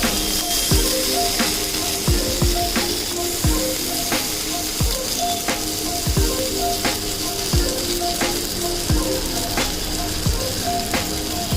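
Paneer tikka skewers sizzling as they fry on a hot tava, a steady hiss. Background music with a steady beat plays along.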